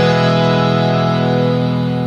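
Scale changer harmonium on its full-bass reed setting holding one sustained chord, its reeds sounding steadily and easing slightly in level near the end.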